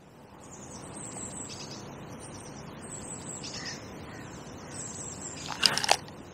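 Small birds twittering high-pitched over a steady outdoor hush, with one loud, harsh bird call about five and a half seconds in.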